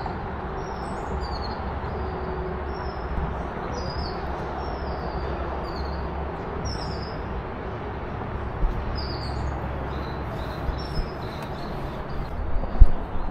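Small birds chirping over and over, short high notes that slide downward, above a steady low rumble. A single sharp knock sounds near the end.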